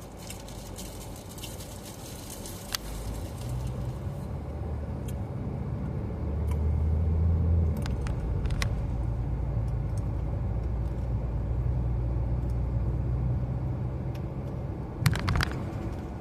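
Car cabin noise while driving: a steady low engine and road rumble that swells about halfway through, with scattered light clicks and a quick run of clicks near the end.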